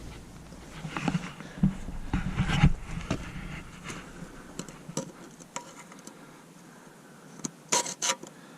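Scattered light clicks, taps and short scrapes of metal parts being handled, with a low hum that drops away about halfway through and a few sharper clicks near the end.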